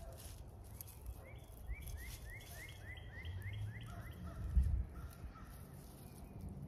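A songbird singing a quick run of repeated short rising notes, about three or four a second for roughly three seconds, then a few lower notes. A low rumble runs underneath, with a low thump about halfway through.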